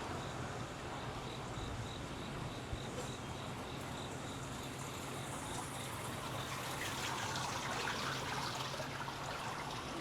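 An insect chirping in short, evenly spaced high pips, about three a second, that stop about six seconds in, over a steady rush of flowing water.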